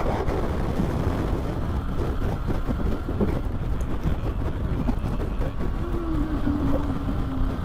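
Triumph Tiger 900's three-cylinder engine droning under heavy wind rush on the rider's microphone while riding on the highway; a steady engine tone stands out more clearly near the end.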